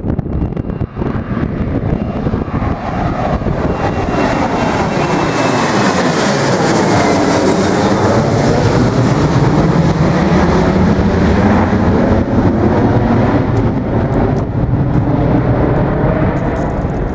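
Boeing 737-700's twin CFM56 turbofan engines at takeoff power as the jet climbs out low overhead. The jet noise swells to its loudest around halfway through, with a sweeping whooshing pattern and a high whine that sinks slightly in pitch as it passes, then stays loud as it recedes.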